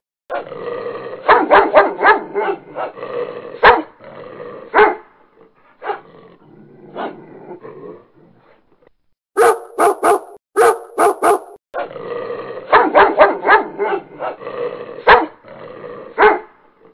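Dogs barking in fast runs of many barks, with quieter barking and a short pause in the middle. About halfway through comes a burst of about six sharp, separate barks, then the first run of barking comes again.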